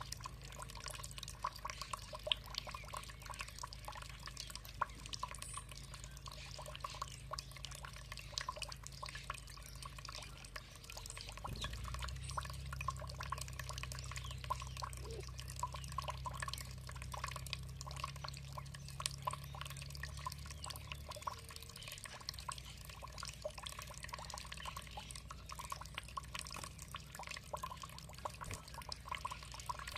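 Water trickling and dripping in a dense patter of small splashes over a steady low rumble, which grows louder for several seconds in the middle.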